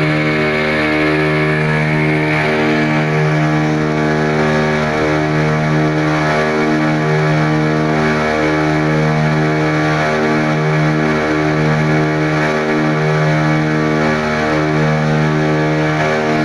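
Boat engine running steadily under way: a loud, droning pitched note that dips briefly every second or two.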